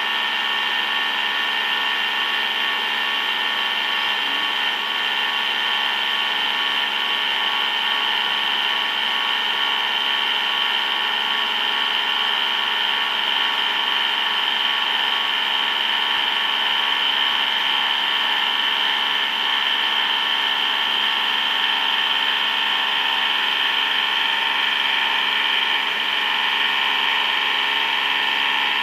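A large CNC machine tool running through a steady cut, giving a constant high whine made of several fixed pitches.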